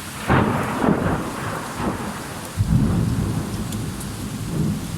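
Thunder: a sudden clap about a third of a second in that rumbles on, and a second loud peal about two and a half seconds in, over steady rainfall.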